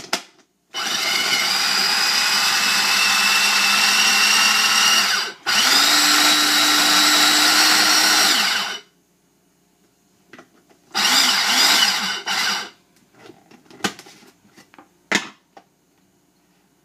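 Small 3-cup electric food chopper running in pulses as it chops boiled chicken: two long runs of about four and three seconds with a brief break between, then a shorter burst of under two seconds, followed by a few clicks and knocks.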